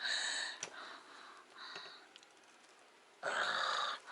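A person breathing out heavily in several breathy exhales, the last one the longest.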